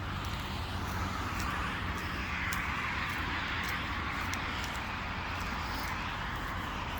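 Road traffic: a vehicle passing on the parkway, its tyre and road noise swelling to a peak two to three seconds in and fading, over a steady low rumble.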